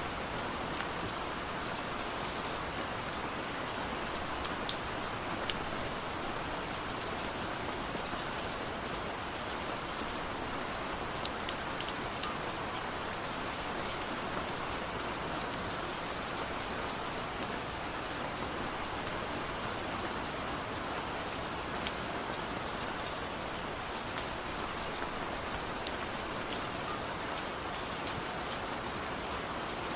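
Steady rain falling, with many individual drops ticking sharply through the constant hiss.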